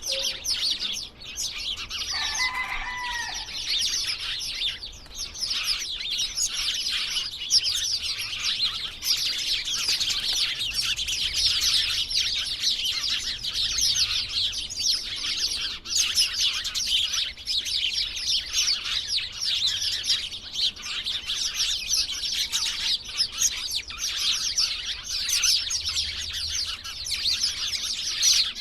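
A flock of small birds chirping and chattering in a tree, many rapid high chirps overlapping without a break. A single lower, drawn-out call sounds briefly about two seconds in.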